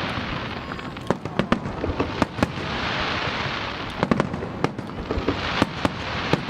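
Fireworks display: a rapid, irregular string of sharp bangs from shells bursting, with swells of crackling hiss between them, strongest about three seconds in.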